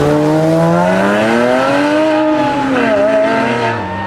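A performance car's engine revving hard as it accelerates away. Its pitch climbs for about two seconds, dips sharply about three seconds in, then drops near the end.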